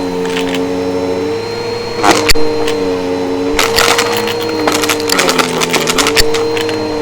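Vacuum cleaner running with a steady motor whine that dips and shifts in pitch as the load changes, while it sucks up crunchy debris in bursts of crackling, rattling clicks, thickest about two seconds in and again from about four to six seconds in.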